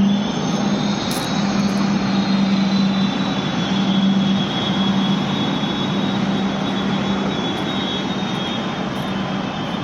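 Jet aircraft engine noise from an airport apron or runway: a steady rush with a low hum and a high whine that drifts slightly lower, easing off a little toward the end.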